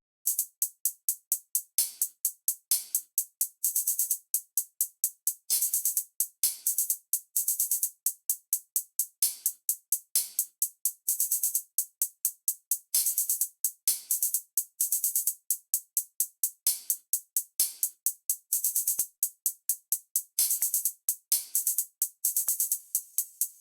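Programmed drum-machine hi-hat pattern playing on its own: a quick run of short, crisp ticks, several a second, with no other instruments.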